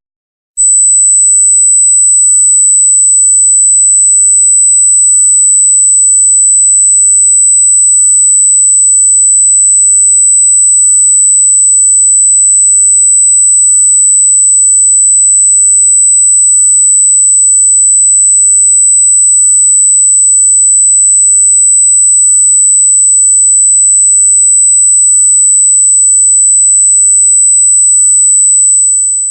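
A loud, piercing electronic pure tone at about 8 kHz, held steady at one pitch. It comes in about half a second in, after a brief silence, and fades out and stops right at the end.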